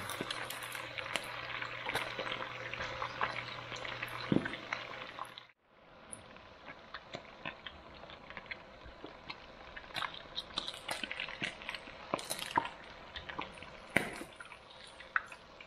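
Catfish frying in hot oil in a pan: a steady sizzle with many small pops and crackles. About five and a half seconds in, the sound cuts out abruptly, then comes back softer, with scattered pops.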